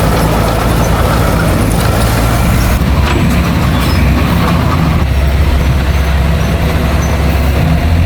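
Heavy diesel engine of earthmoving machinery running steadily, its low note shifting about five seconds in.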